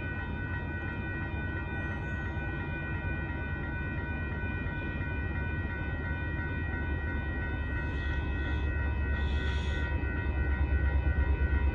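Railroad crossing warning bell ringing steadily while the low rumble of an approaching loaded tanker freight train grows louder in the second half.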